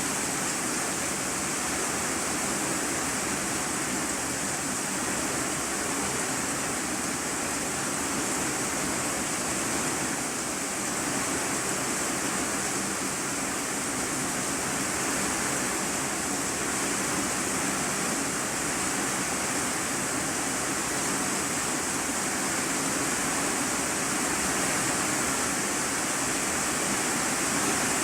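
Steady heavy rain drumming on an iron-sheet roof, heard from the room beneath as an even hiss.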